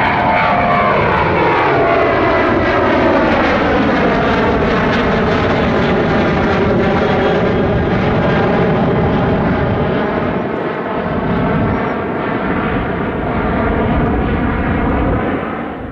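Boeing 737-800 jetliner's CFM56 turbofan engines running at takeoff power as it passes, a loud jet roar with a stack of engine tones that fall in pitch over the first several seconds and then level off.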